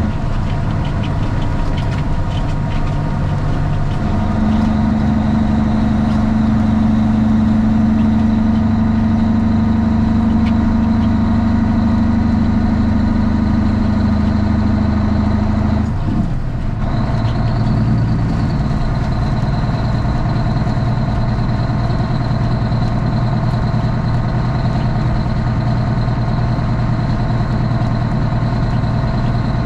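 Straight-piped Cummins ISX inline-six diesel of a Kenworth T800 truck running steadily; about halfway through its note drops abruptly, as in a shift or a fall in revs, and it runs on at a lower pitch.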